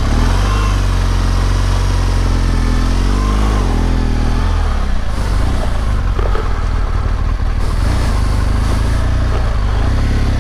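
BMW R1200GS Adventure's boxer-twin engine running steadily, its note briefly rising and falling about three seconds in.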